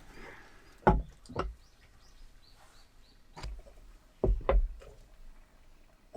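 A series of separate knocks and thumps, about six spread irregularly over a few seconds, with a sharper knock at the very end.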